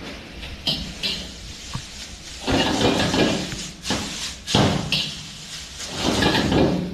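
Noodles being stir-fried and tossed in a pan: sharp knocks of a cooking utensil against the pan, with three longer stretches of scraping and sizzling as the noodles are turned over.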